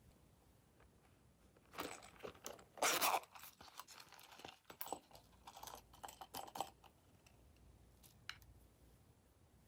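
Hands working slime materials, making crackly crinkling and crunching noises in clusters, loudest about three seconds in, then a few faint clicks.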